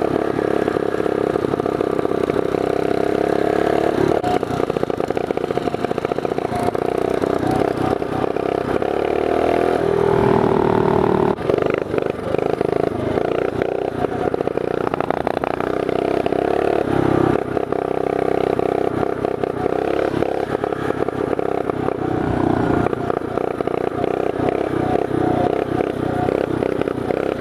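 Small single-cylinder mini bike engine running as the bike is ridden, its pitch rising and falling as the throttle is worked.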